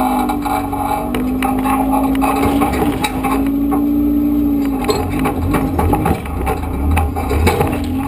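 Suzuki Samurai's engine running as it crawls through a rocky creek bed, with scattered knocks and clatter. About five seconds in the engine note breaks up and turns lower and heavier for a couple of seconds before it steadies again.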